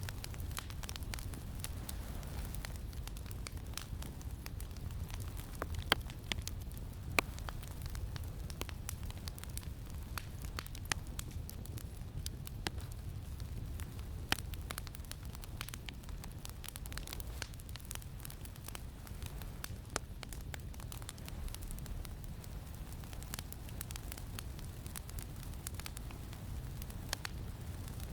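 Campfire crackling, with scattered sharp pops, a few louder ones standing out, over a steady low rumble of wind.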